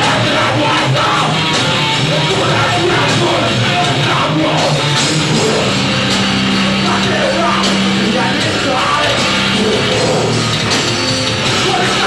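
Loud live rock band playing, a dense wall of amplified instruments, with a low note held for a few seconds in the middle.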